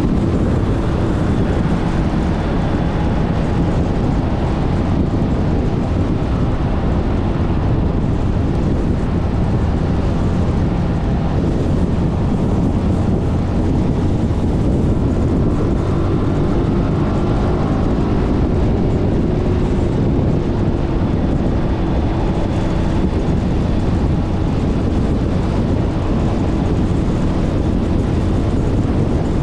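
Suzuki Burgman 400 maxi-scooter's single-cylinder engine running at road speed, with steady wind rush on the camera microphone.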